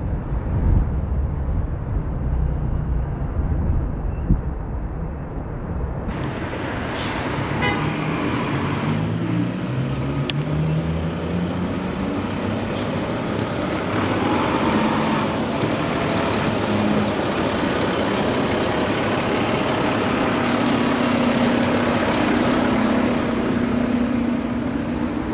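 City street traffic heard from a moving scooter: a low wind rumble on the microphone at first, then motor vehicles passing, one engine rising in pitch as it speeds up about a third of the way in, and a steady engine hum near the end.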